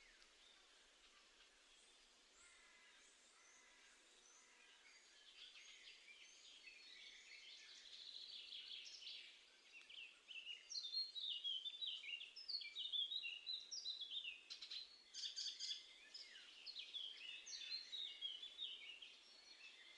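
Small garden songbirds singing and calling, faint at first, then a busy run of quick, sweeping notes from about halfway.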